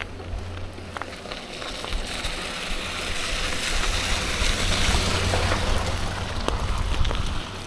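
Wind buffeting the microphone of a moving bicycle, with a low rumble and a broad hiss of rolling tyres that swells from about three seconds in and drops just before the end, and a few light clicks and rattles.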